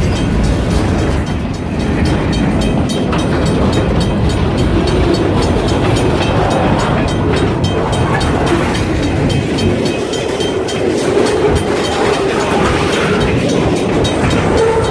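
Freight train rolling past close by: a steady, loud rumble with rapid clicking of the wheels over the rail joints.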